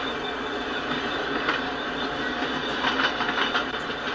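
Freight train's autorack cars rolling past at steady speed: the continuous rumble and rattle of steel wheels on the rails, with a few sharp clacks, most of them near the middle.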